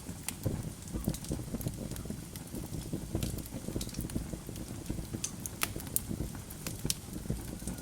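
Wood fire burning in a fireplace: logs crackling with irregular sharp pops over a low, steady rumble of the flames.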